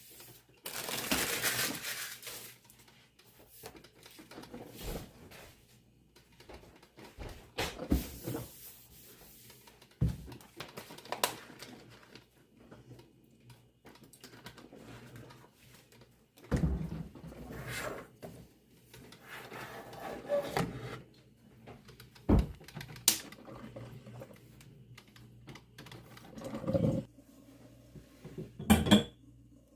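Scattered knocks, clicks and brief rustling or scraping in a small room, as things are handled and set down, coming every second or two with quiet gaps between.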